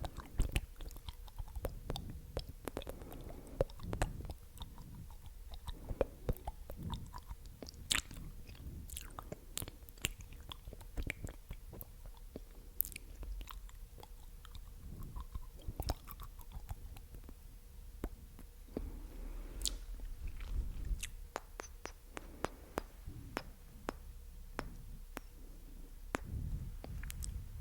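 ASMR mouth sounds close to the microphone: wet, sticky clicks and small pops of the lips and tongue, coming irregularly and many times a second.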